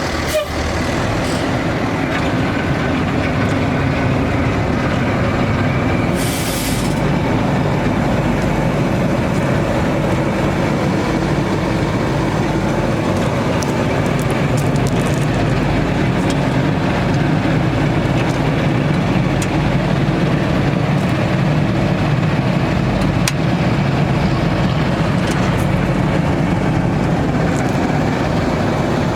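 Cummins ISC diesel of a Freightliner M2 water truck running steadily, with a short hiss about six seconds in.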